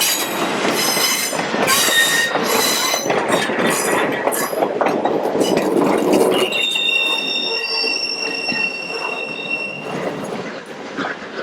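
Steam-hauled heritage train rolling over a bridge, its wheels clicking over the rail joints, then a steady high-pitched wheel squeal from about six and a half seconds in.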